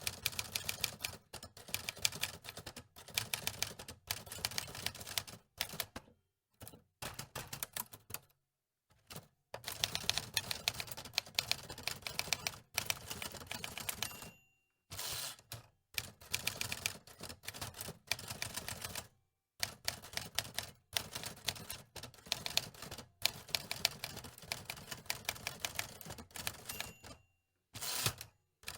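Manual typewriter being typed on: runs of rapid key strikes lasting a few seconds each, broken by short silences, with a brief ring about halfway through.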